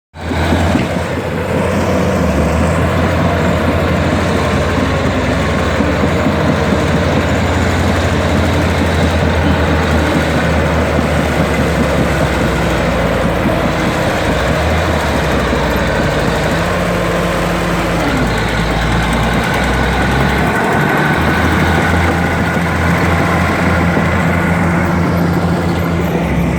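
Komatsu D60P bulldozer's diesel engine running steadily, its note dropping a little about eighteen seconds in.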